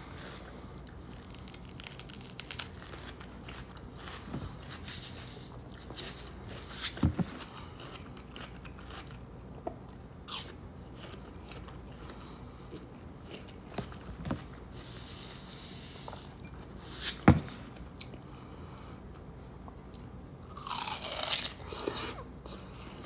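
Close-miked biting and chewing of crunchy watermelon: crisp bites scattered through, the loudest about a third of the way in and again about three quarters in, with a longer noisy stretch near the end.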